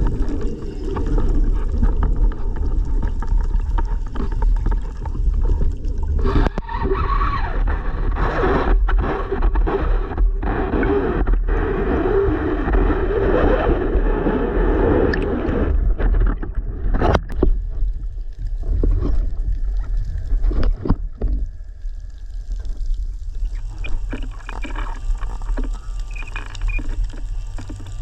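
Underwater sound picked up by an action camera: a steady low rumble with muffled swishing and gurgling water. It grows louder and brighter through the middle stretch, with several sharp clicks, then thins out near the end.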